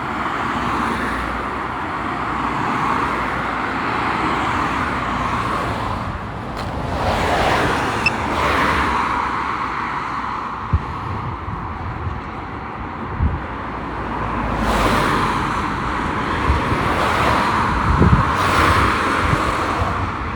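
Road traffic: a steady background of passing cars, with several vehicles swelling up and fading away one after another. Low gusty rumbles of wind buffet the microphone.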